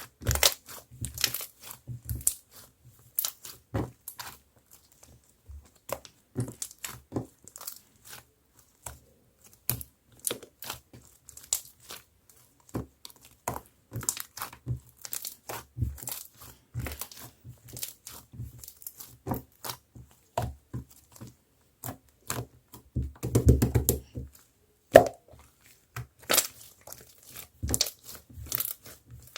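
Thick marbled slime being squeezed and stretched by hand, giving a steady run of sticky crackling clicks and pops. A dense flurry of clicks comes about two-thirds of the way through.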